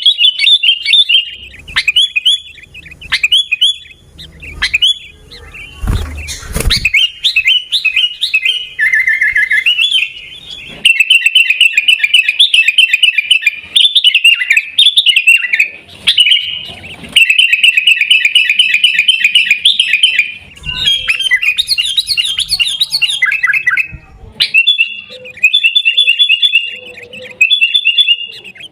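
Sooty-headed bulbul (kutilang) calling in fast, repeated chirping notes, in long chattering runs with short pauses. A brief low knock or rustle comes about six seconds in.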